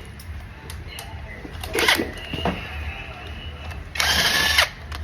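Power drill or driver run in short bursts: two brief sounds about two seconds in, then a loud half-second whir with a whine about four seconds in, over a low steady hum.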